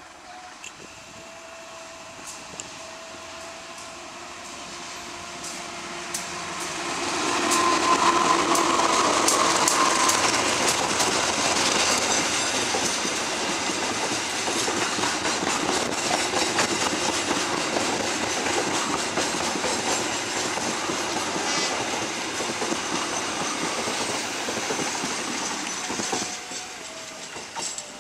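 Passenger train hauled by a CC 206 diesel-electric locomotive, approaching and passing close by as it slows to enter the station. The sound builds over the first seven seconds or so and is loudest around eight to ten seconds in as the locomotive goes by. The coaches then roll past with a steady clatter of wheels over rail joints that eases off near the end.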